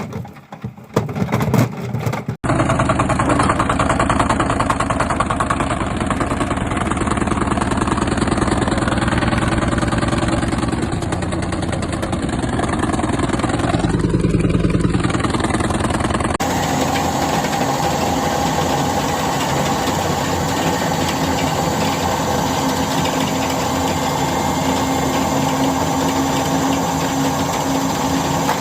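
Washing machines running hard, shaking with a fast, steady rattle and hum. There are a few irregular knocks at the start, and about halfway through the sound switches abruptly to a second machine with a different rattle.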